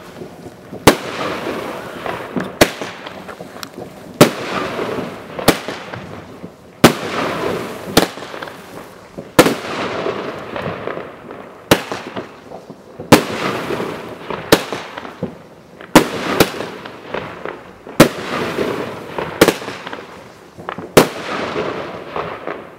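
Weco Razorlight 29 mm fan-salvo firework battery firing, its shells bursting in the air with loud bangs, about fourteen, one every one to two seconds. Each bang trails off in a fizzing, crackling hiss.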